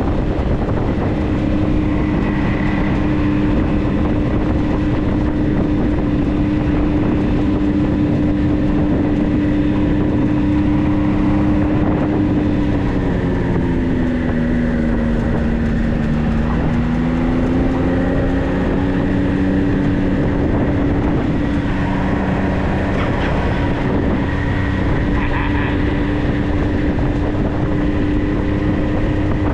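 Vehicle engine running steadily as it drives, with road noise underneath. About halfway through the engine note drops as the vehicle slows, then rises back to a steady pitch as it picks up speed again.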